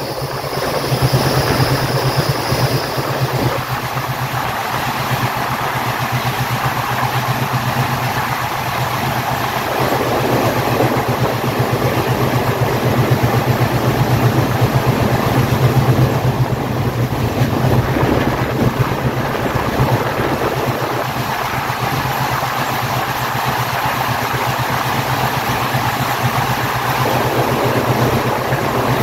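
Passenger train running at speed through a tunnel, heard from an open coach door: steady loud rumble of wheels on rail, echoing off the tunnel walls, with the chugging of the WDM-3A's ALCO diesel engine running under load up front.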